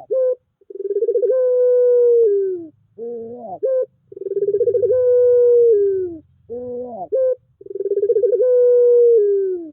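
Puter pelung turtle dove cooing in a repeating pattern. Three long, drawn-out coos hold one pitch and slide down at the end, and each is followed by a shorter rising note.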